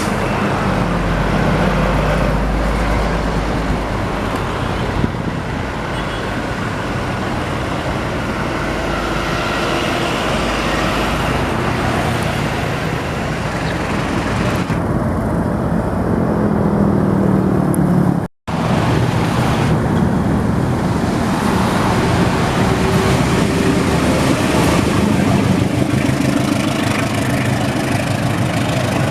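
Steady road traffic with motor vehicles passing, their engine tones sliding down in pitch as they go by. The sound cuts out abruptly for a moment about two-thirds of the way through, then the traffic noise resumes.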